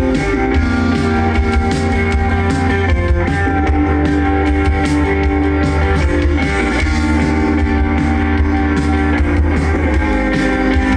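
Live rock band playing a guitar-led passage over a heavy, steady bass line.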